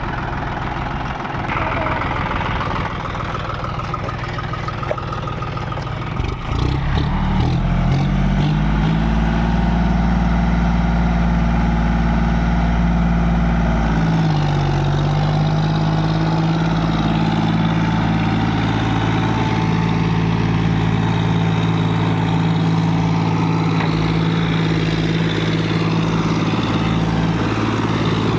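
Tractor diesel engine idling, then revving up about six seconds in and holding a steady high-revving note, with a brief dip about halfway through before it settles again.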